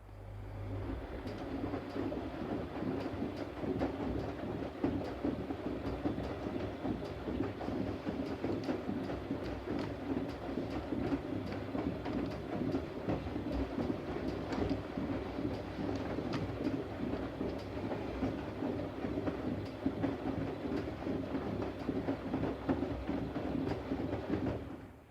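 Siemens Siwamat IQ 716 washing machine running mid-cycle with a steady rattling churn. It starts abruptly and stops suddenly near the end.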